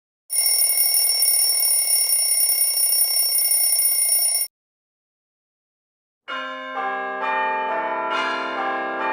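An electric bell rings continuously for about four seconds and cuts off suddenly. After a short gap a peal of bells begins, bells struck one after another about twice a second, each ringing on and overlapping the next.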